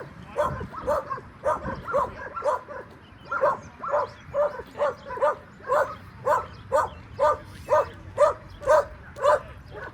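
A dog barking over and over in a steady rhythm, about two short, fairly high barks a second.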